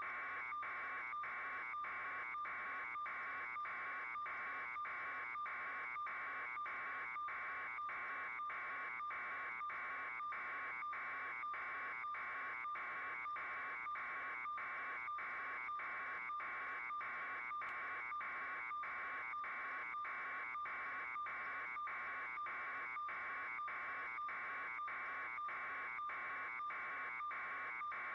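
A steady, hissy buzz pulsing evenly a little under twice a second, with a faint high whine behind it.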